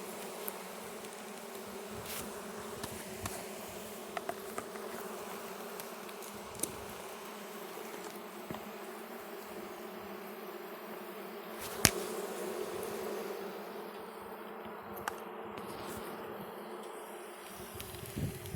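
A colony of Russian honey bees humming steadily from an open hive, with a few sharp clicks, the loudest about twelve seconds in.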